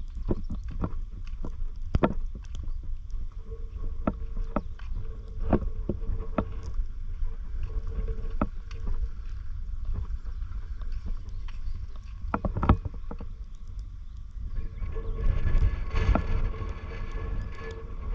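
Seawater lapping and sloshing at the shore with many scattered sharp clicks and a steady low rumble, growing louder and noisier in the last few seconds.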